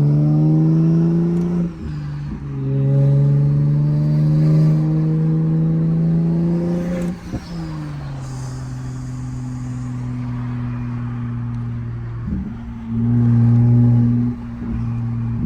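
Big-turbo Toyota Supra Mk5's B58 turbocharged inline-six pulling hard, its pitch rising steadily, with a short break for a gear change about two seconds in. About seven seconds in the pitch drops as it lifts off to a steady cruise, then it comes back on the throttle with a louder rise near the end.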